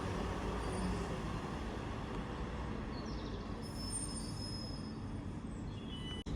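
A passenger train running at a station platform: a steady rumble, with faint high-pitched squeals around the middle.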